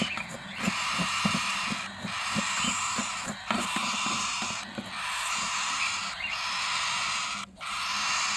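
Dense chatter of many caged birds calling together, with short low calls repeated under a steady high hiss of chirps.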